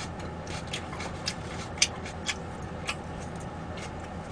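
Wet smacking and clicking mouth sounds of someone chewing food close to the microphone, about a dozen irregular clicks with the sharpest a little under two seconds in, over a steady low hum.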